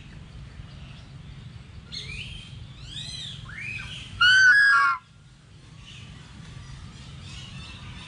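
Birds calling: a string of short chirps and rising-and-falling whistled notes, with one loud, harsh pitched call a little past the middle that lasts under a second and drops in pitch at its end.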